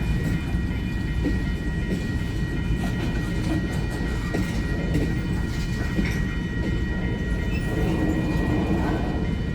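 Freight train cars rolling past with a steady low rumble and occasional clacks from the wheels on the rails, and a steady high whine over it.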